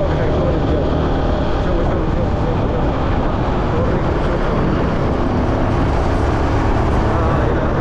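Car on the road, with steady engine and tyre noise.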